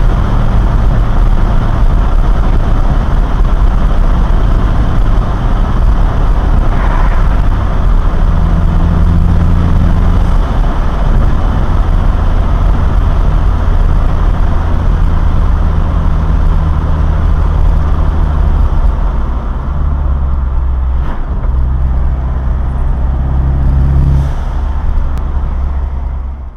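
Ford Mustang EcoBoost 2.3-litre turbocharged four-cylinder engine with a Magnaflow Street cat-back exhaust, heard from inside the cabin with the windows down while driving. The engine note holds steady, then changes pitch in steps several times, over road and wind noise, and fades out right at the end.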